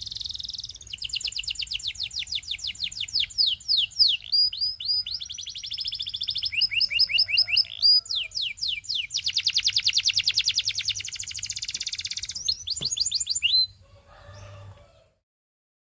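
Canary singing: long rolls of rapidly repeated sweeping notes, changing from one trill to the next. The song stops about fourteen seconds in.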